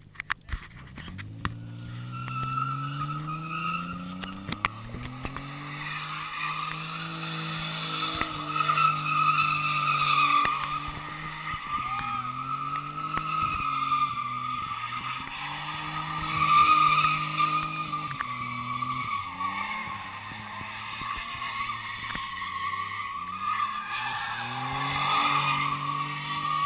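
Nissan 300ZX Twin Turbo's 3.0 L twin-turbo V6 revving hard while the car spins donuts, its pitch climbing and dropping over and over as the throttle is worked, over a continuous squeal of the spinning rear tyres.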